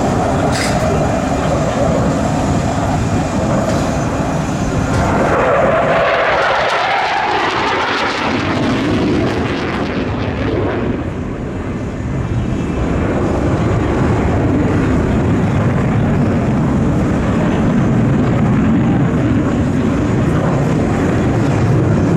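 Aircraft flying past, with loud engine noise that swells about five to eight seconds in, dips briefly, then settles into a steady low rumble.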